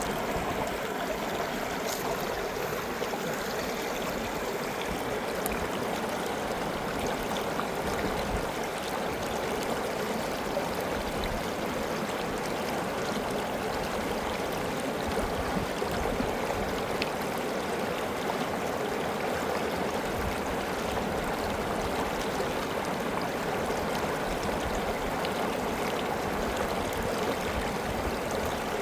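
River water flowing over rocks: a steady rushing and gurgling of a stream that holds at an even level throughout.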